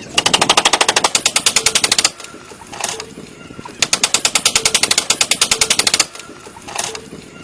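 Two bursts of rapid mechanical hammering from a power tool working wood, about a dozen strikes a second, each burst lasting about two seconds, with a single knock in the pause between them.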